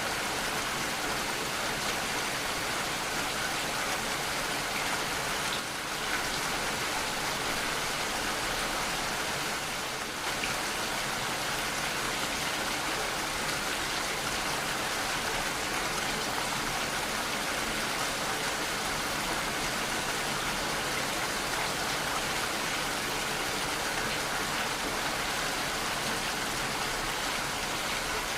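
Steady rain falling, an even rush of raindrops that dips briefly twice.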